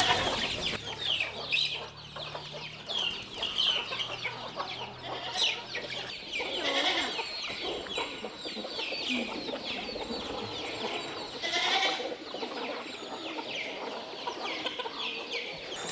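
Poultry calling: many short, high chirps, each falling in pitch, repeating and overlapping throughout, with a few louder calls in between.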